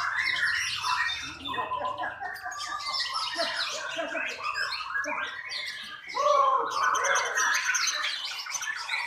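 A songbird singing a fast, varied string of chirps, whistled glides and squawks without pause, louder from about six seconds in.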